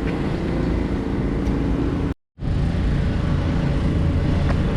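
Motor vehicle engines running, a steady low rumble, broken by a brief dead-silent gap about two seconds in where the recording cuts.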